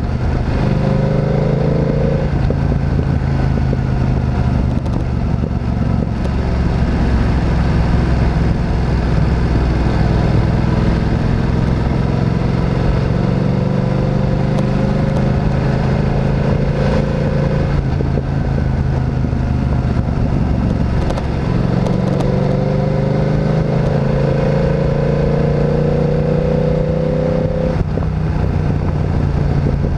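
Motorcycle engine pulling through long, slow climbs in pitch, each one ending in a sudden drop, about two seconds in, near the middle and near the end, as the rider shifts gear or rolls off the throttle.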